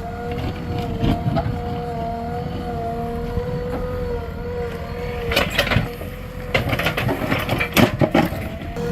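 JCB 3DX Plus backhoe loader's diesel engine running steadily under load, with a steady whine. Bursts of knocking and clattering come about five seconds in and again near the end, as the machine works the stones.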